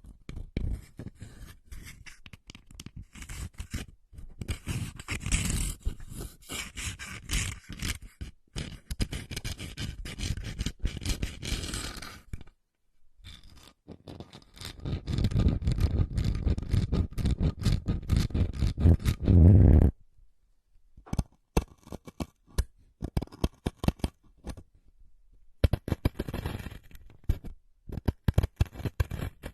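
Close-miked ASMR scratching and scraping sounds, made up of dense runs of short rasps and clicks. A louder, fuller stretch about halfway through stops suddenly, and sparser scratches follow with pauses between them.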